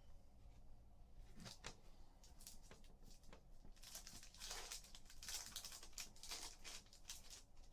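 Faint crinkling and tearing of a trading-card pack wrapper, with light taps and clicks of cards being handled; the crinkling is busiest from about four to seven seconds in.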